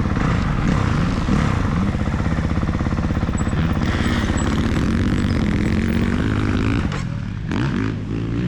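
Motocross dirt bike engine ridden hard around the track, its pitch rising and falling with each burst of throttle and gear change. About seven seconds in the throttle is shut off and the engine drops away, then picks up again.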